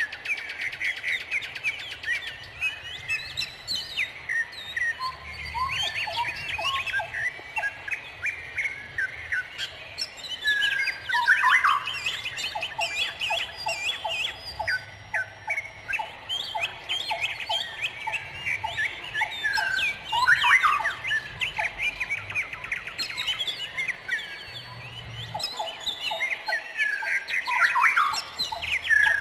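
A dense chorus of many birds chirping and calling over one another, with quick trills and sliding notes, and a lower run of rapid, evenly spaced notes that comes back several times.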